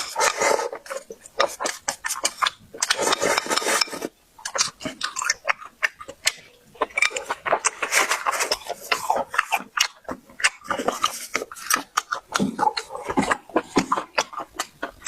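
Close-miked eating: wet chewing and lip-smacking, thick with quick sharp clicks and smacks, with occasional clinks of utensils on dishes.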